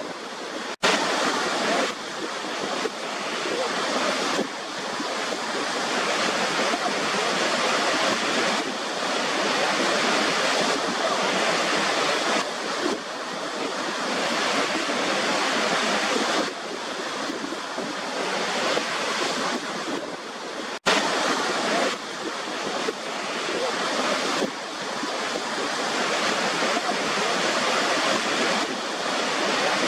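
Waterfall: a steady, dense rush of falling water, which cuts out for an instant twice and comes straight back.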